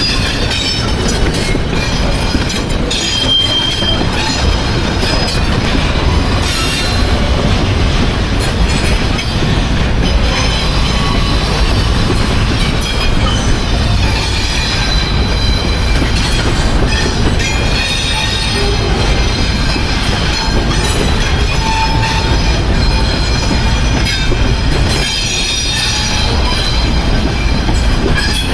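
CN train #180's cars rolling past at close range: a steady rumble and rattle of wheels on rail, with high-pitched wheel squeal that comes and goes.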